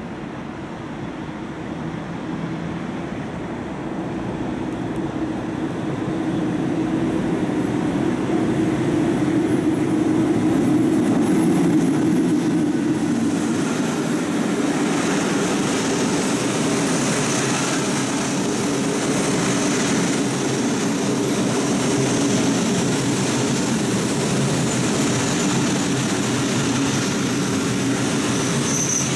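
Passenger train approaching and running past along the platform. Its rumble grows louder over the first dozen seconds, then holds steady as the coaches go by. A high-pitched wheel squeal joins about halfway through.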